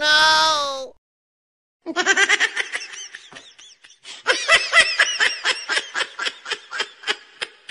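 Laughter: a long run of rapid, high-pitched laugh pulses starting about two seconds in, strongest in the middle and tapering off near the end. A held, slightly wavering tone lasting about a second comes before it.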